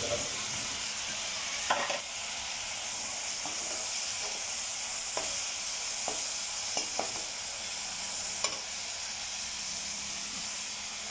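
Onion-tomato masala sizzling in oil in a kadai, stirred with a steel slotted spoon that scrapes and taps against the pan now and then, the sharpest tap about two seconds in.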